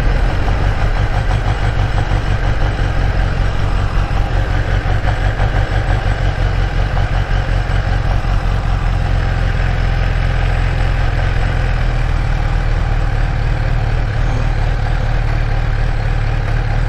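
Kawasaki Ninja H2's supercharged inline-four motorcycle engine running steadily at low revs, with no revving.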